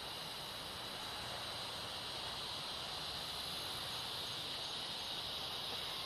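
Chorus of night insects: a steady, high-pitched drone that goes on without a break.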